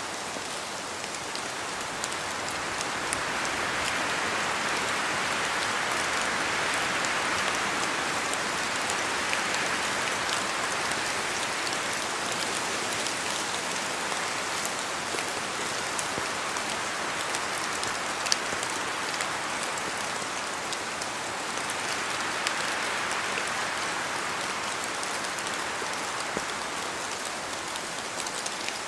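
Steady rain falling on forest foliage, with many scattered drop ticks and a sharper drip about two thirds of the way through. A gust of wind swells the rush twice, building for several seconds from a few seconds in and again later.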